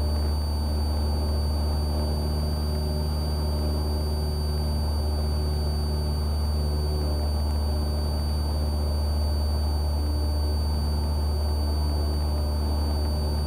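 Cessna 172R's four-cylinder Lycoming engine and propeller running steadily at climb power, a constant low drone heard in the cabin, with a faint steady high whine above it.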